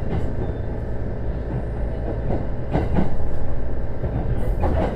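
JR East E129 series electric train running on the rails, heard from inside the car: a steady rumble of wheels on track with a few clicks from rail joints, growing louder about three seconds in.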